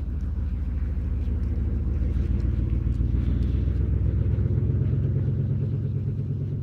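A motor vehicle's engine running steadily, its pitch rising slightly about two-thirds of the way through.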